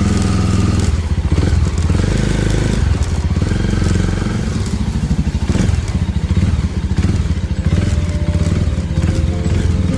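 Small Suzuki motorcycle engine running as the bike pulls away and rides off, its note shifting about a second in.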